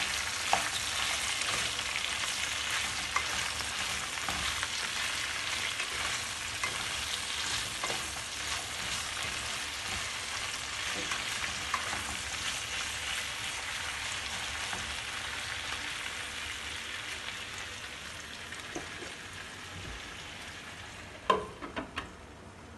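Cut okra sizzling as it is stir-fried in a little oil, a wooden spatula stirring and scraping in the pan, the sizzle slowly dying down over the last several seconds. Near the end, a few sharp clinks as a glass lid is set on the pan.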